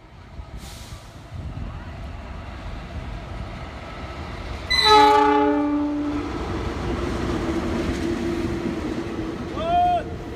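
Train horn sounding loudly for about a second and a half as a train comes past, followed by the steady rumble and hum of the train running by. Near the end a second, shorter horn toot bends up and back down in pitch.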